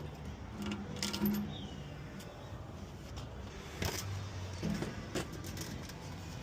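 Hand tools and metal hose fittings clinking and knocking in scattered short strikes, over a low steady rumble.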